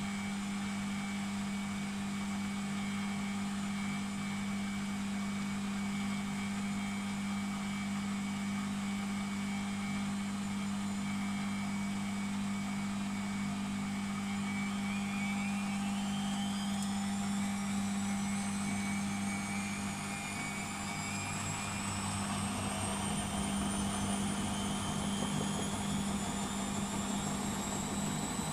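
Beko WMP 601 W washing machine running with a steady hum. About halfway in, a whine starts climbing steadily in pitch as the motor speeds the drum up into a spin, with a low rumble building near the end.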